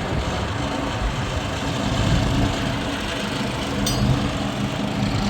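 An engine running steadily at an even speed, a constant low hum, with a brief high click about four seconds in.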